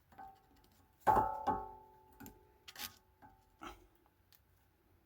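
A metal object strikes down about a second in, then again just after, and rings on with a clear tone for a couple of seconds. A few lighter clicks and taps of metal follow.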